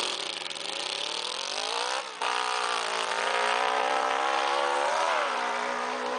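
Yamaha motorcycle engine on a racing lawn mower accelerating under load. Its pitch climbs to a brief break about two seconds in, as at a gear change, climbs again, then drops about five seconds in.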